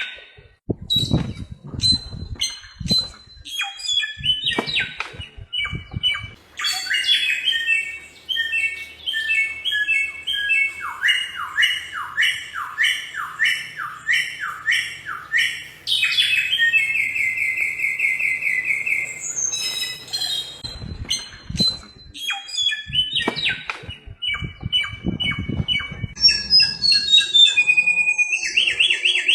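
Flores whistler singing a long, varied song of whistled notes: repeated short phrases, a run of downward-slurred whistles, then fast trills near the end. A low rumble sounds twice beneath it.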